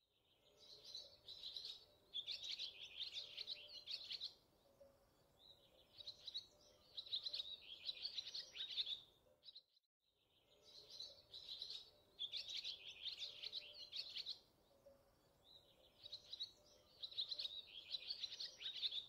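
Small birds chirping in quick runs of high calls, a stretch of about ten seconds heard twice over.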